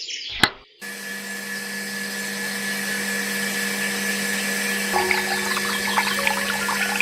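A mini electric water pump clicks on about a second in and runs with a steady hum. From about five seconds in, water starts splashing and trickling.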